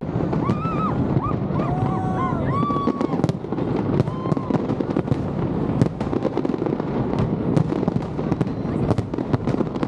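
Fireworks display: a continuous rumble of shell bursts with many sharp bangs and crackles. In the first few seconds short rising-and-falling calls ring out over the bangs.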